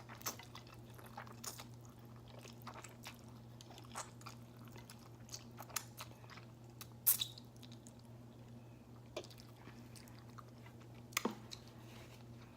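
Close-miked chewing of spicy ramen noodles: soft wet mouth sounds and scattered small clicks, with two sharper smacks about seven and eleven seconds in. A faint steady low hum lies underneath.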